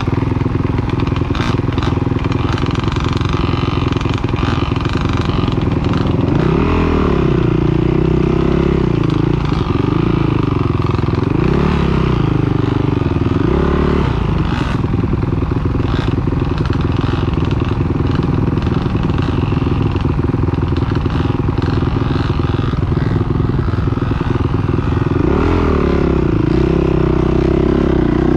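Motocross bike engines revving up and down as the bikes ride, the pitch climbing and dropping with the throttle several times over a steady low engine drone.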